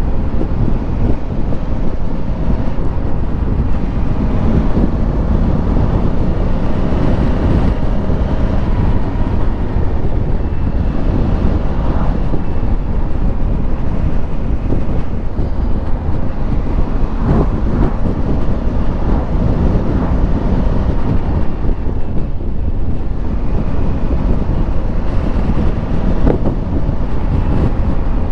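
Steady wind rush over a motorcycle rider's helmet microphone while riding, with the Honda Africa Twin's parallel-twin engine running underneath.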